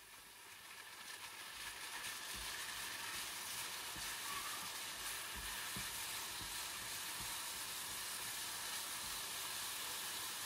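Sliced oyster mushrooms sizzling as they sauté in oil in a nonstick frying pan; the sizzle builds over the first couple of seconds and then holds steady. Soft, irregular knocks from a silicone spatula stirring the mushrooms against the pan run underneath.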